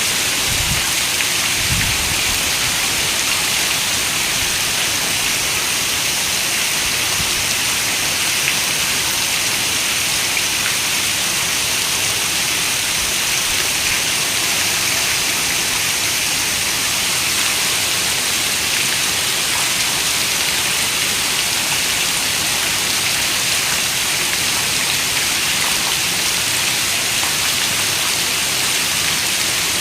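Steady rain falling, a dense, even hiss with no letup.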